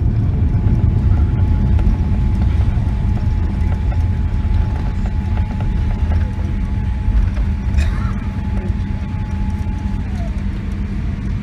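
Boeing 777-300 passenger cabin noise on landing: a steady low rumble with a thin steady whine that slides slightly down about ten seconds in.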